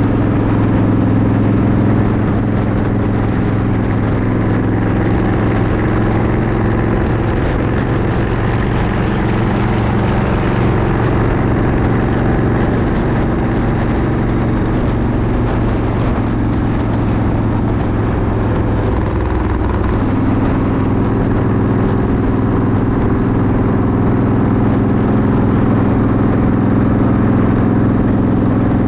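Motorcycle engine running steadily at cruising speed under a constant rush of wind and road noise; the engine's pitch shifts slightly about twenty seconds in.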